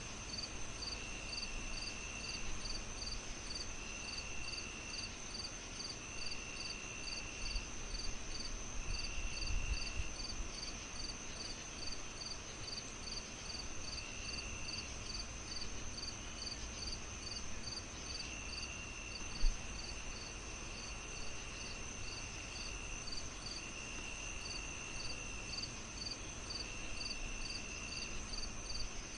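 Crickets chirping: a steady high ring, a chirp repeating about two to three times a second, and separate trills about a second long every couple of seconds, over a soft even hiss. A single low thump comes about 19 seconds in.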